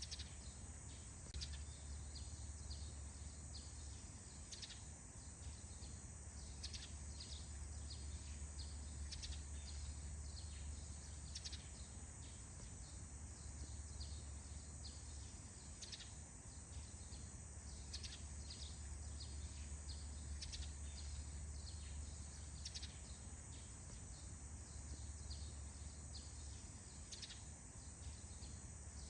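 Faint morning forest ambience: many short, high bird chirps scattered irregularly over a steady high hiss and a low steady rumble.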